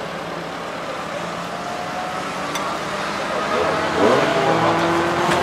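Car engine running, getting louder about three and a half seconds in, with the revs rising and falling.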